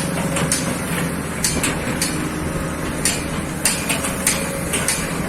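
Hitachi ZX excavator's diesel engine running steadily, with frequent irregular sharp knocks and clanks of the machine at work.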